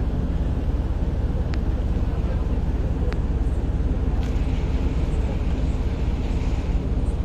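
Ferry's engine running with a steady low rumble, and a few faint clicks over it.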